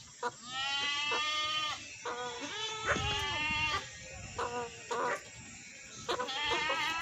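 Bleating calls from a goat or sheep in a series: long wavering bleats of over a second each, with shorter ones between.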